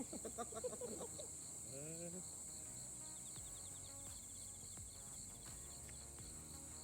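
Insects chirping steadily: a constant high buzz with a regular pulsed chirp, like crickets. Faint voices in the first couple of seconds.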